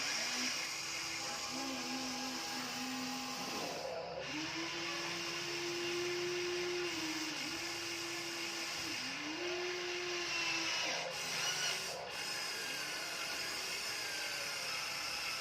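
Small electric motor and gearbox of a Huina RC dump truck whining, the pitch stepping up and down and pausing every few seconds as the motor speeds up, slows and stops.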